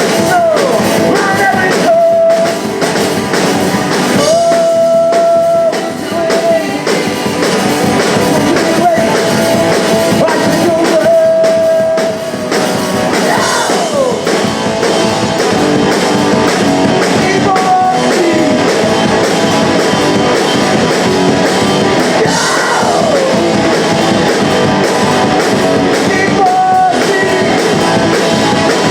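Punk rock band playing live: electric guitar and drums under a sung and yelled vocal that holds long notes and swoops up and down in pitch several times.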